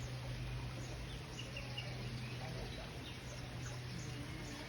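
Steady outdoor background noise with a low hum, and a few faint, short bird chirps about one and a half seconds in.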